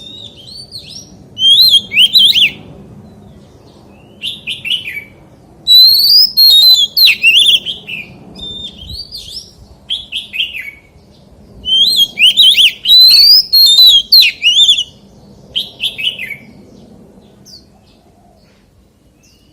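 Oriental magpie-robin singing: loud bouts of rich, varied whistled phrases with quick rising and falling notes, separated by short pauses and softer notes. The song goes quiet for the last few seconds.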